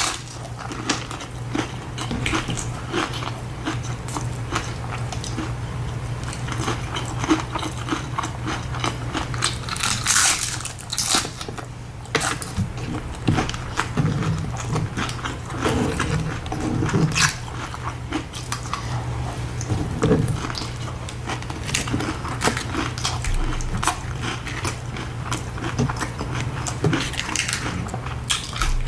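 Close-up eating sounds of tacos being bitten and chewed: a steady run of small mouth clicks and chewing noises with a few louder bites. A steady low hum runs underneath.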